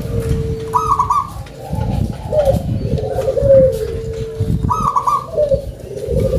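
Zebra dove (local perkutut) cooing: twice, about four seconds apart, a phrase opens with a short higher note and runs into a string of lower, warbling coos. A steady low rumble lies underneath.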